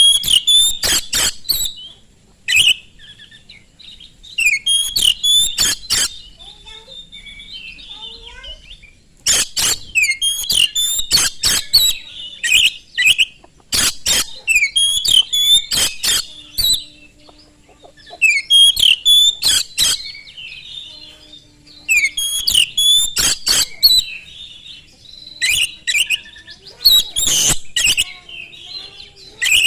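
Oriental magpie-robin singing fast and loud in bouts of a few seconds, high whistled phrases mixed with sharp clicking notes, with short pauses between bouts.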